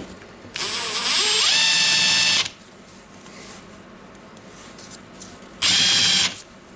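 Makita DTW1002 cordless impact wrench's motor running free, with no load, in two trigger pulls: a run of about two seconds whose whine rises as it spins up and then holds steady, and a short burst near the end. It runs again now that a loose controller wire has been resoldered.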